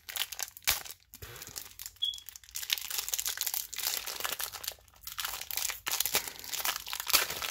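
Plastic wrapping crinkling and crackling irregularly as it is handled, most likely the cellophane around a pack of card sleeves.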